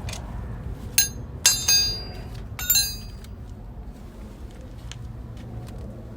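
Metal objects clinking together, four quick sharp strikes in the first three seconds, each ringing briefly, over a steady low background hum.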